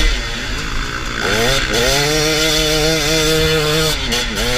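Off-road motorcycle engine revving: the pitch climbs about a second in, holds at high revs, dips briefly near the end and climbs again.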